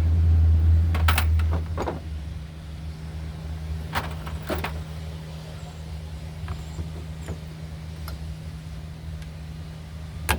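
Scattered clicks and knocks of hand work on a chainsaw's fuel lines over a steady low machine hum; the hum drops in level about a second and a half in.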